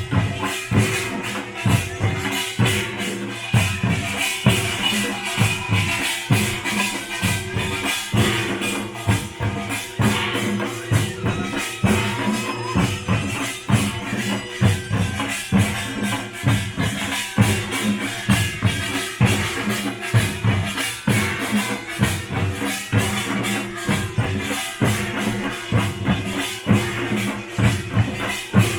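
Korean pungmul (nongak) percussion band playing: drums struck in a steady, driving rhythm, with sustained ringing tones underneath and a dense metallic clatter above.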